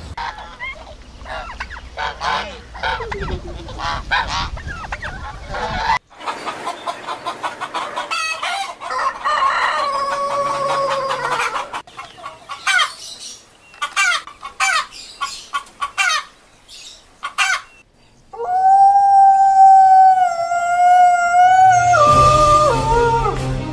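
Chickens clucking in a run of short clips, with a rooster crowing one long held call near the end.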